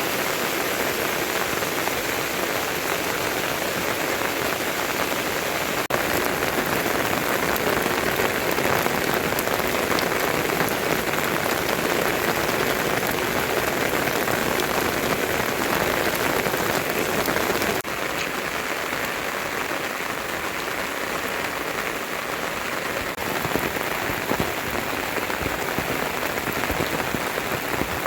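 Steady heavy rain falling, a dense even hiss of drops; the level changes abruptly twice, a little louder about six seconds in and quieter about two-thirds of the way through.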